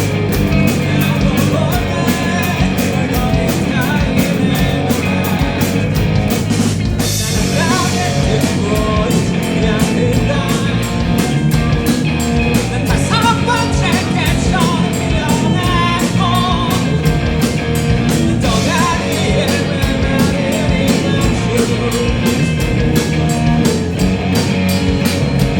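A live rock band playing with a singer: drum kit keeping a fast, even beat under electric guitars, bass and keyboard, with a short break about seven seconds in.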